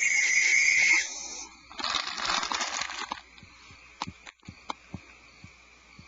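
Barn owls hissing: a loud rasping hiss with a steady high tone through it that cuts off about a second in, a softer hiss around two to three seconds in, then a few faint clicks and knocks.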